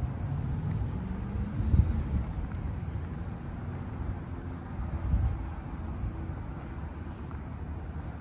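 Outdoor background noise: a steady low rumble of distant traffic, with wind buffeting the microphone in a couple of gusts, about two seconds in and again about five seconds in.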